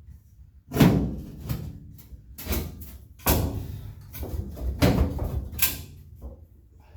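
Steel roll bar tubes clanking and knocking against the pickup's bed as they are fitted into place: a series of sharp metal knocks, some with a short ring, the loudest about a second in.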